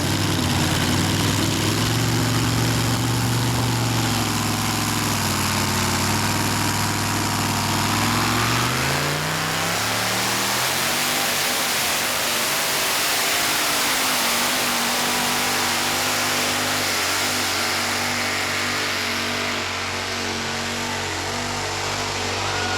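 Tractor-pulling engine running hard and steady, rising in pitch about nine seconds in and then holding at the higher revs.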